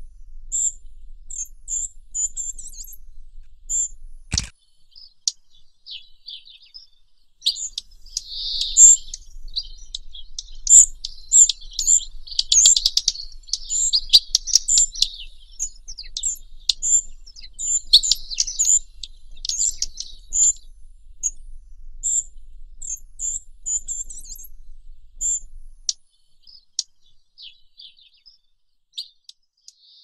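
Songbirds chirping: short, thin, high notes repeated every half second or so, with a busier stretch of overlapping song and trills in the middle that thins out near the end. A single sharp knock sounds about four seconds in.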